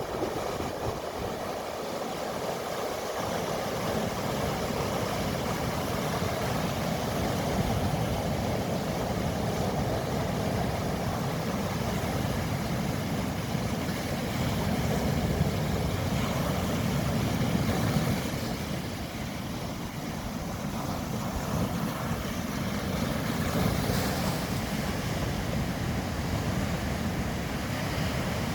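Mediterranean Sea surf: waves washing in as a steady rush of water, swelling a little and then easing for a moment about two-thirds of the way through.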